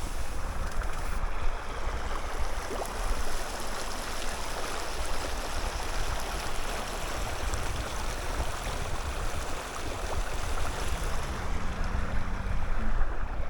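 Creek water running steadily, an even rush of flowing water.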